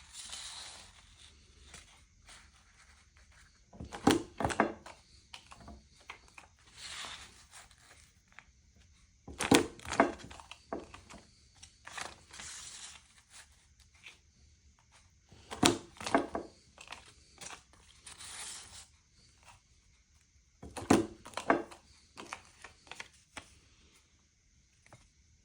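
50×50 mm square paper cutter cutting out paper squares: four cutting strokes about every six seconds, each a short cluster of clunks and crunches. Softer paper rustling comes between the strokes.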